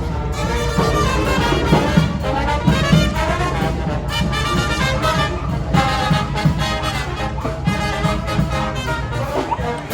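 Brass band music: trumpets and trombones playing over drums.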